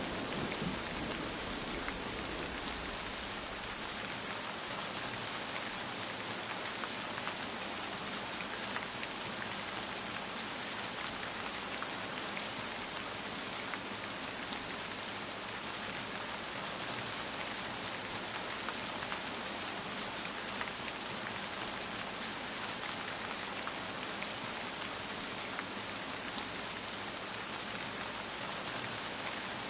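Steady rain falling, an even hiss of dense drops. A low rumble of thunder dies away in the first couple of seconds.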